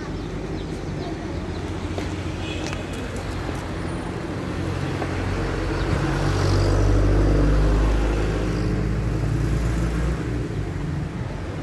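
Low motor rumble of traffic, swelling to its loudest about six to eight seconds in as a vehicle passes, then easing, with a few faint bird chirps in the first few seconds.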